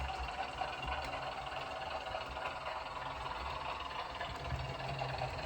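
Sound decoder of a Bachmann class 101 model DMU playing its diesel engines running at speed, with the clickety-clack of rail joints, through the model's small speaker.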